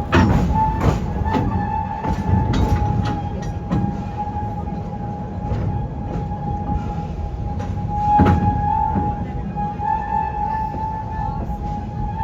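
Serengeti Express park train running on its track, heard from on board: a steady low rumble with irregular knocks and clacks from the wheels and cars, and a steady high whine.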